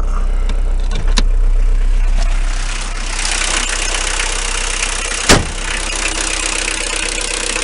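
Renault 21 four-cylinder turbodiesel engine running, with a steady low rumble and a brighter hiss from about three seconds in. A sharp click comes about a second in and a loud sharp knock about five seconds in: the knock the owner hears on acceleration, which mechanics have not traced and which is not a conrod or a bearing.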